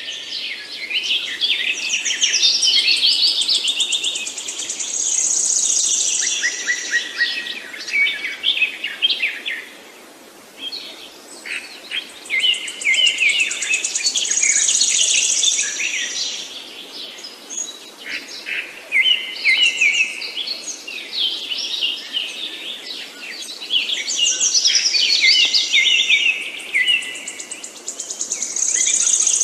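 Songbirds singing in a busy chorus of quick chirps and trills. Each burst of song lasts several seconds and eases off briefly before the next one.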